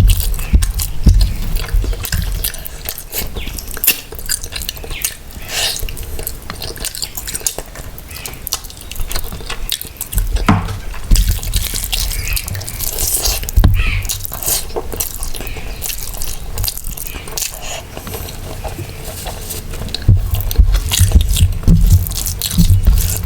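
Close-up eating sounds of mutton biryani and mutton curry: wet chewing and smacking with many small clicks and squelches, heavier stretches of chewing coming and going.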